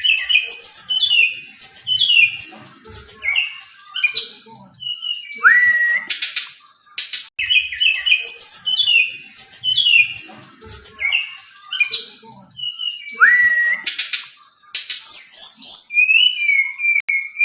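Brown-chested jungle flycatcher (SRDC) singing: clear, flute-like whistled phrases of quick descending notes, a rising whistle and short harsh rasps. The same sequence comes twice and ends on a long held whistle.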